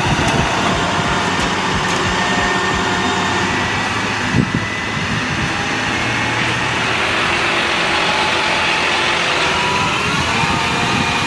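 Heavy truck engine running amid road traffic noise, with a faint whine that slowly rises in pitch.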